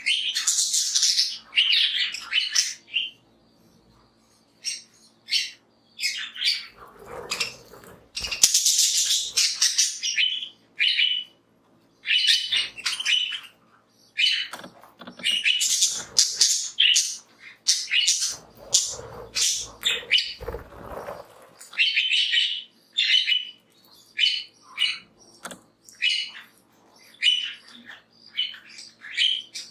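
Flock of budgerigars chirping and chattering, a steady stream of short, rapid calls.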